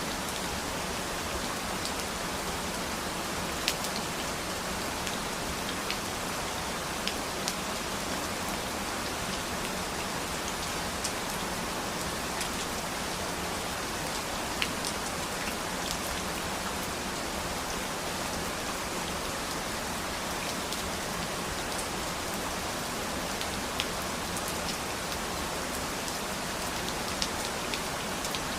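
Steady rain falling, an even hiss with louder single drops ticking close by every few seconds.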